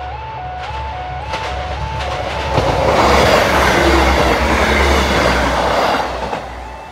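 A level crossing's two-tone electronic warning alarm steps back and forth between two notes, then a Class 158 diesel multiple unit passes close by from about two and a half seconds in, its wheels and running gear clattering loudly over the rails and drowning the alarm for about four seconds before fading.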